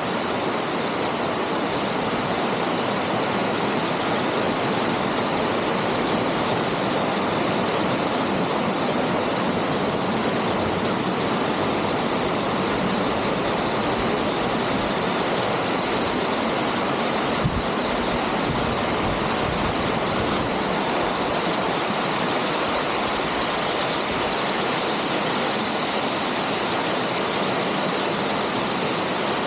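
Waterfall falling in a steady, unbroken rush of water, with one brief low bump about two-thirds of the way through.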